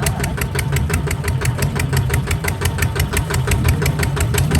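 Kubota RT140 DI single-cylinder diesel engine running steadily, with a rapid, even knock of about eight beats a second.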